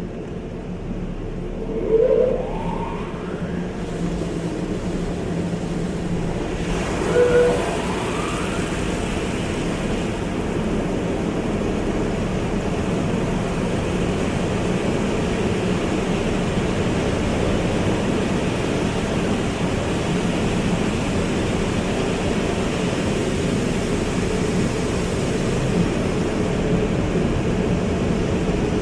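Automatic car wash running: a steady rush of spraying water and machinery with a low hum, slowly building. Two short rising whines stand out about two and seven seconds in.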